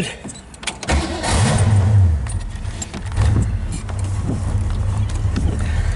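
A 1965 Ford Mustang's 289 V8 starting: keys jingling in the ignition, then about a second in the engine fires with a brief rev and settles into a steady low idle.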